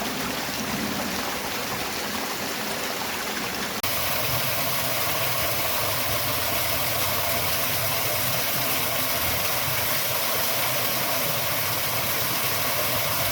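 Steady rush of a waterfall and its stream. About four seconds in it changes suddenly to a louder, fuller rush that then holds steady.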